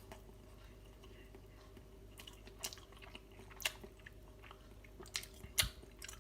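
A person chewing a mouthful of microwaved doner kebab meat in pita bread, with a handful of short, sharp mouth clicks, the loudest near the end, over a faint steady hum.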